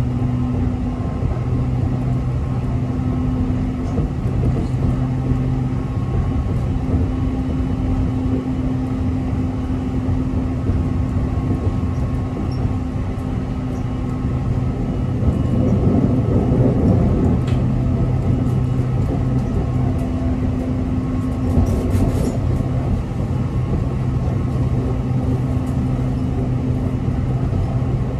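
Aoimori Railway electric train running between stations, heard from inside the passenger car: a steady rumble of wheels on rail with a steady low hum, swelling louder for a couple of seconds about midway.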